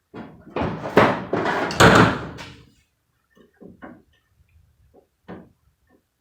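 Loud metal rattling and scraping inside a pickup truck's cab door as the loosened window track and glass are worked free, peaking twice over about two seconds, followed by a few light knocks.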